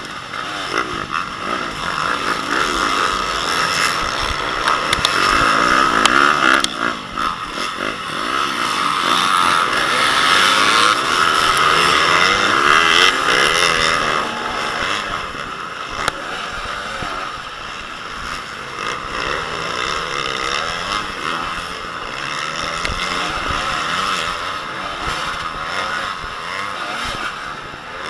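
Motocross bike engines running hard, revving up and dropping again and again as the bikes accelerate and shift; loudest about ten to thirteen seconds in.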